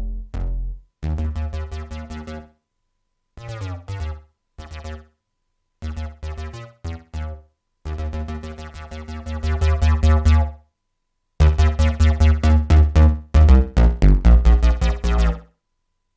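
Waldorf Kyra synthesizer playing short phrases of fast, rhythmic repeated notes over a deep bass, each phrase cutting off into silence before the next.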